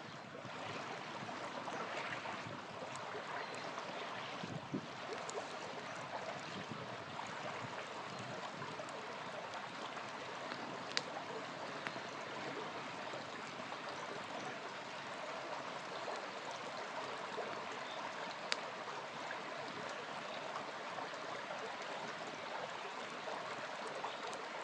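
Small river flowing steadily, with a few sharp crackles from a campfire, the loudest about eleven and eighteen seconds in.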